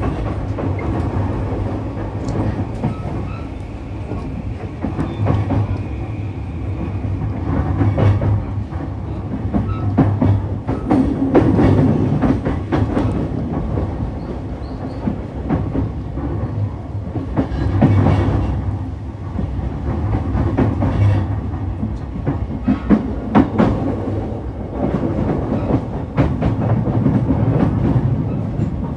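JR East E233-3000 series electric train running along the track, with a steady rumble and the wheels clicking over rail joints.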